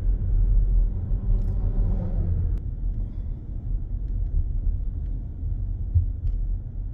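Low, steady rumble of a car driving along, heard from inside the cabin: road and engine noise.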